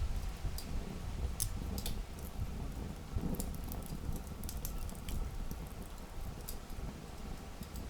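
Campfire of burning wood crackling: sharp, irregular pops and snaps over a low, steady rumble.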